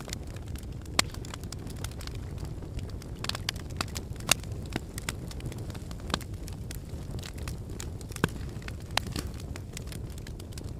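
Logs burning in a fireplace: a steady low rumble of flames with irregular crackles and sharp pops, the loudest pops about a second in, near four seconds, around six seconds and about eight seconds in.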